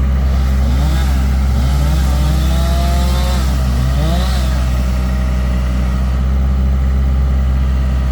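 An engine running steadily with a strong low hum, its pitch rising and falling a few times in the first half.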